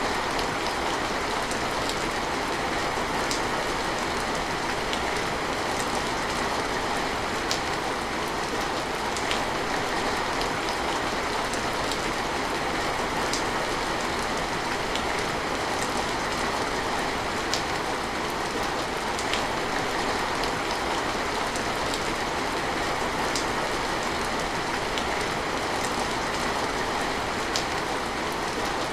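Steady rain falling, an even rushing hiss with scattered faint drop ticks.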